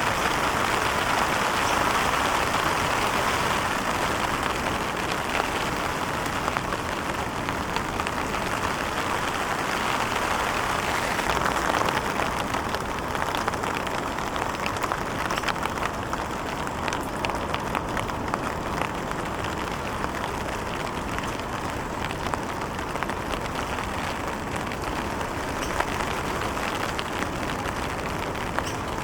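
Ocean surf breaking and whitewater washing and fizzing, a steady hiss of water noise with fine crackle.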